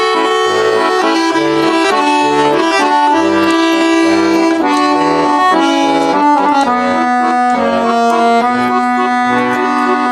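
Accordion playing the instrumental introduction to a waltz: a sustained melody over a regular bass-and-chord accompaniment.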